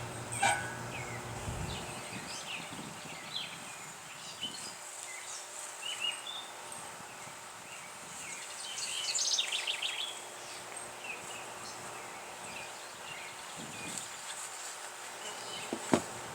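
Honeybees buzzing around an opened hive, with birds chirping and trilling over it. A few sharp knocks come through, the loudest near the end.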